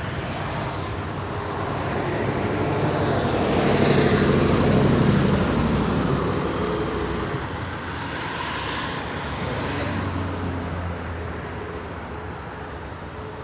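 A motor vehicle passing close by, its engine and road noise rising to a peak about four seconds in and fading away, followed by a fainter second vehicle passing.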